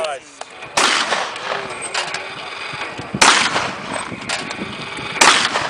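Shotgun shots at clay targets: three loud bangs about two seconds apart, each with a trailing echo, and fainter bangs in between.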